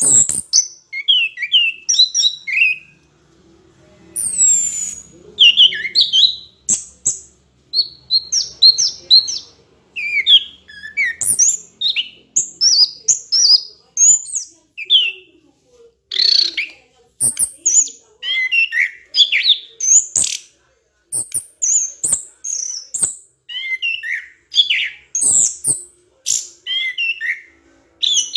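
A bird chirping and whistling in quick, varied short notes, several a second, with brief pauses.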